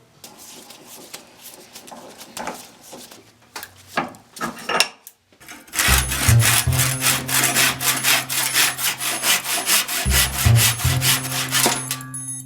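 Handsaw cutting through wood, most likely the old axe handle being sawn off. The strokes are slow and uneven at first, then after a short pause become a fast steady back-and-forth, about four strokes a second, over a low steady tone.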